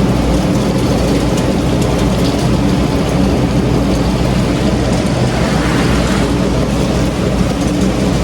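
Strong thunderstorm wind buffeting the microphone: a loud, steady, low rumble with a hiss spread over it.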